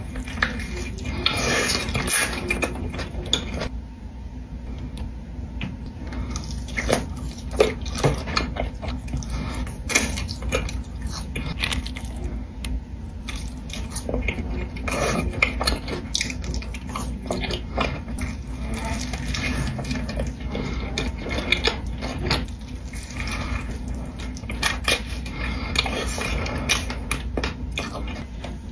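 Close-miked eating sounds: irregular clicks and crunches with utensils and dishes clinking, over a steady low hum.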